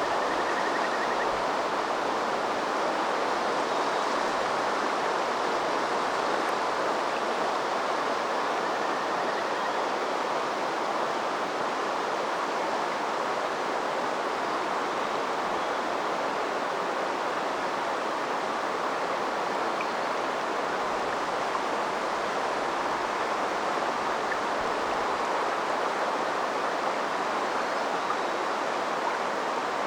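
River water flowing steadily, an unbroken rushing babble that holds at one level throughout.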